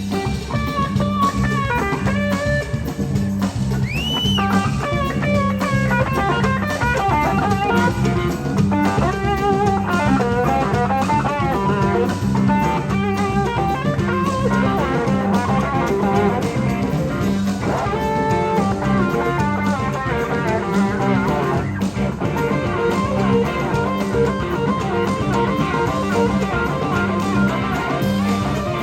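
Live blues-rock band: an electric slide guitar solos, its notes gliding up and down, over bass and drums.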